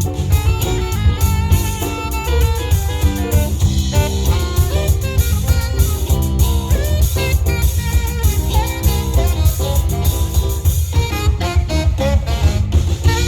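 A live band playing an upbeat funk instrumental: a tenor saxophone carries the lead over electric guitar, bass guitar, keyboard and a drum kit keeping a steady beat.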